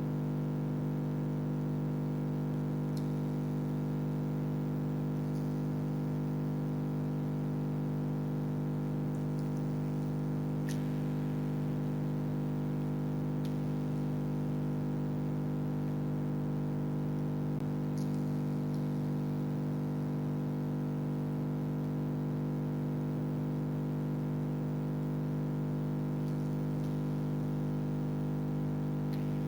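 Freezer compressor humming steadily, a low hum with several overtones, with a few faint clicks over it.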